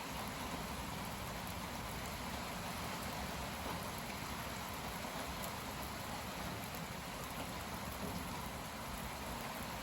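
Heavy rain falling steadily, a continuous even hiss of rain hitting surfaces, as the cold front's downpour arrives; strong wind gusts are likely mixed in.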